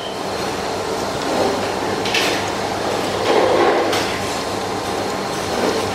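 Steady restaurant background noise: a low hum under a mix of indistinct noise, with short hissing sounds about two and four seconds in.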